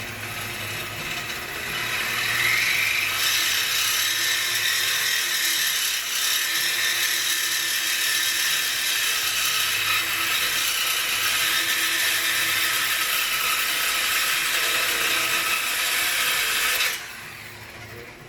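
Handheld power tool running on a car's exhaust pipe: a loud, steady, high-pitched whir that rises as it spins up in the first couple of seconds and stops abruptly near the end.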